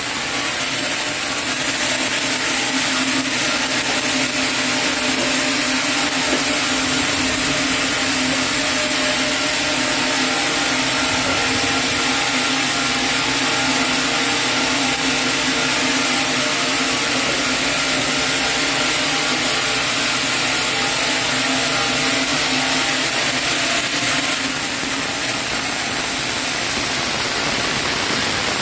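Sawmill saw running steadily through a chinaberry log, a loud, continuous machine hum with a cutting hiss on top. It eases a little near the end.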